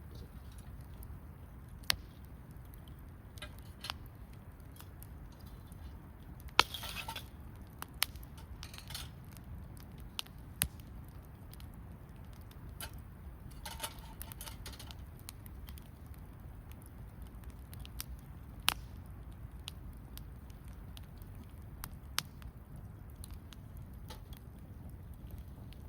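Wood campfire crackling, with sharp single pops every few seconds and two brief hisses, over a low steady rumble.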